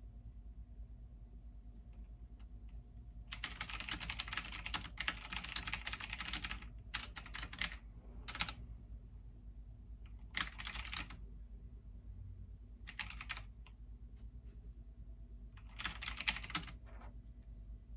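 Computer keyboard typing in several bursts: a long run of rapid keystrokes a few seconds in, then shorter runs with pauses between them. A steady low hum sits underneath throughout.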